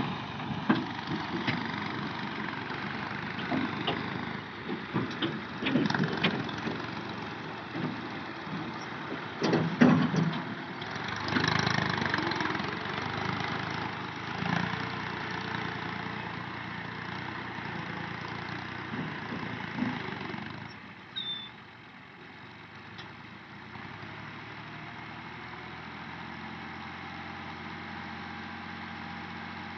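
Tractor engine running, with irregular knocks and clatter over the first two-thirds, the loudest about ten seconds in. It then settles to a quieter, steady idle.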